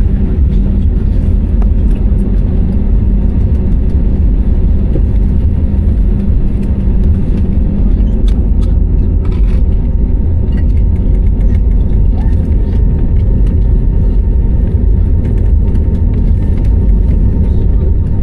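Airliner cabin noise: a steady, loud low rumble of jet engines and airflow heard from inside the passenger cabin, with a few faint clicks.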